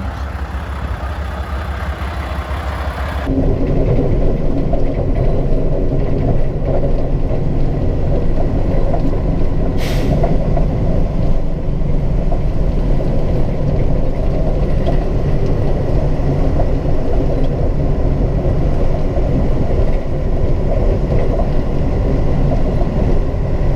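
Mack snowplow truck's diesel engine running steadily under way. The drone gets louder about three seconds in, and there is one sharp knock about ten seconds in.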